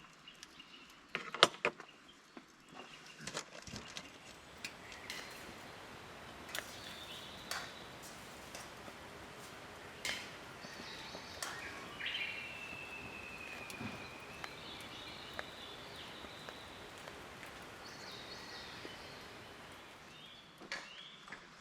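Outdoor forest ambience: a steady hiss with scattered clicks and knocks, the loudest a sharp knock about a second and a half in. Around the middle comes a single drawn-out, slightly falling bird call.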